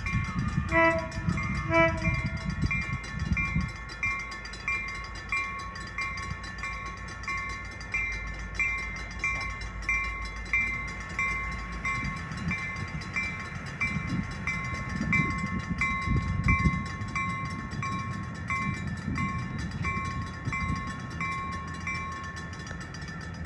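Railroad grade-crossing bell ringing steadily, about one and a half dings a second, then stopping near the end, over the low rumble of a train. Two short horn toots sound near the start.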